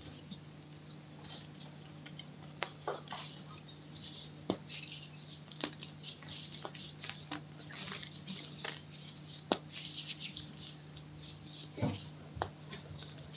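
Chalk crunching and crumbling close to the microphone: irregular crackles and sharp snaps, scattered unevenly, over a faint steady low hum.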